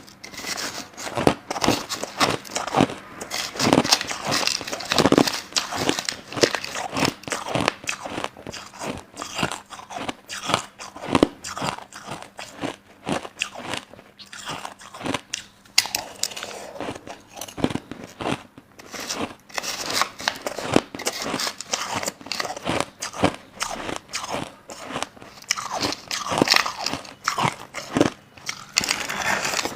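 Crushed ice being bitten and chewed, a dense run of sharp, irregular crunches several times a second, with a couple of brief pauses.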